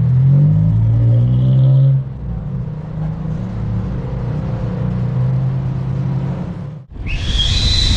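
Car engine revving with its pitch rising for the first two seconds, then running steadily. About seven seconds in it cuts off abruptly and a loud, high whistling sound begins.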